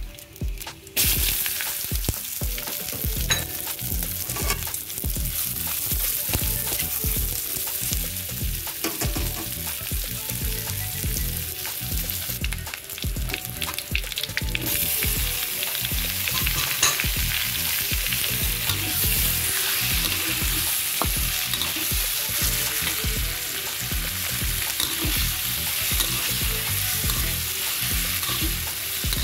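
Sliced onions and garlic sizzling in hot oil in a wok and stirred with a stainless steel spoon scraping the metal. The sizzle starts suddenly about a second in, drops briefly about halfway, then comes back stronger.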